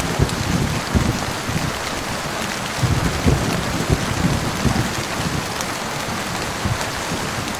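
Steady heavy rain hissing on a surface, with irregular low rumbles of thunder, heaviest around the middle.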